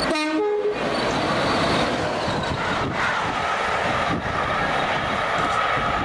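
Loco-hauled passenger train running past at speed and moving away: a loud, steady rush of its wheels on the rails, with a steady high hum that settles in after about two seconds.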